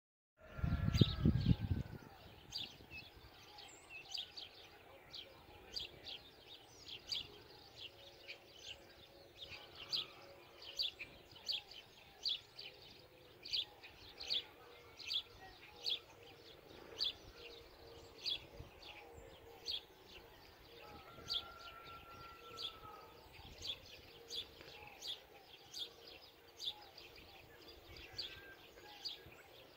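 A bird chirping over and over, short high chirps about every half second, over a quiet outdoor background. A brief low rumble at the very start.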